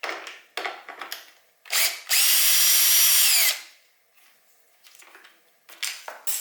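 Power drill spinning a 10 mm socket on a bolt: a brief blip of the trigger, then about a second and a half of steady whirring that drops in pitch as it winds down. Short clicks and rattles of the socket and parts before and after.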